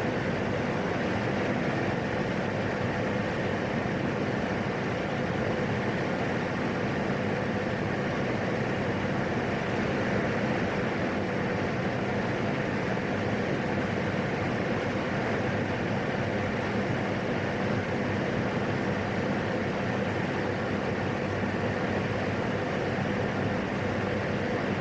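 Steady drone of a PAC 750XL turboprop in climbing flight, with engine and propeller noise heard from inside the cockpit.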